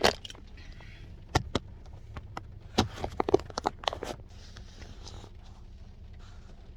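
A series of sharp clicks and taps with some crinkling, thickest about three seconds in: a spoon and a Dairy Queen Blizzard cup being handled while the Blizzard is eaten, followed by faint rustling.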